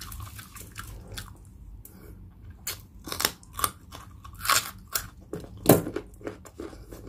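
Close-up eating sounds: chewing, then loud crisp crunches from about three seconds in as a whole raw carrot is bitten and chewed.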